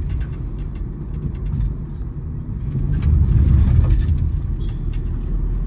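Road and engine rumble inside a moving Honda City's cabin, swelling about three seconds in, with scattered light ticks over it.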